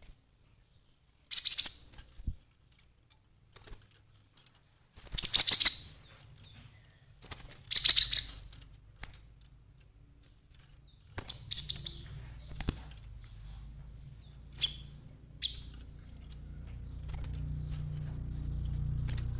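Cinereous tit (glatik batu) giving agitated call bursts: four loud bursts of rapid, sharp high notes a few seconds apart, then two short single notes. A low hum comes up in the last few seconds.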